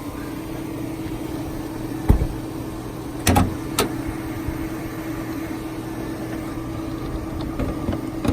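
Chevrolet Avalanche's Vortec V8 idling steadily, with a low thump about two seconds in and two sharp knocks a second later as the hood is opened.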